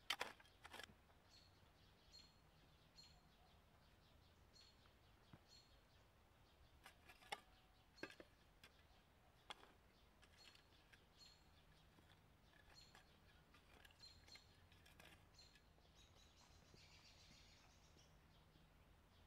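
Near silence in woodland, with a small bird chirping faintly about once a second. A couple of spade strikes into soil right at the start, a few soft knocks near the middle, and faint footsteps on a dirt path near the end.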